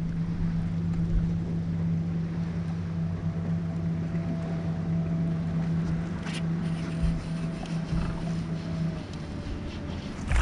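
Boat motor running with a steady hum over wind and water noise; the hum stops about nine seconds in.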